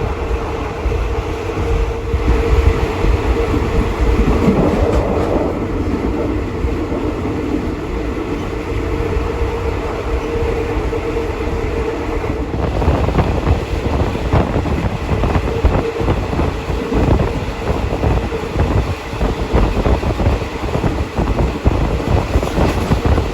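Passenger train running at speed, heard from aboard a carriage: a steady rumble with a constant hum. From about halfway, a rapid, irregular clatter of the wheels over the track sets in.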